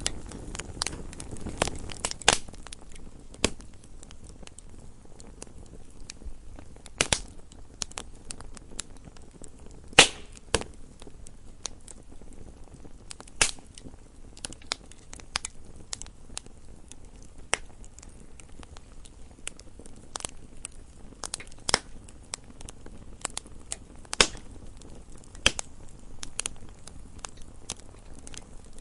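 Wood fire in a fireplace crackling: irregular sharp pops and snaps, a few much louder than the rest, over a faint low hiss of burning.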